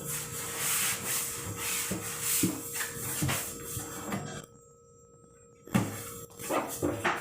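A cloth rubbing over plastic fridge parts as they are dried by hand, with knocks as the pieces are handled and set down. The rubbing stops for about a second past the middle and resumes with a sharp knock.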